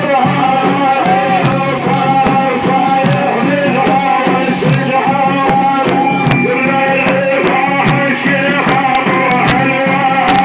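Arabic devotional praise singing (madih) for the Prophet, with a steady beat of drum strikes.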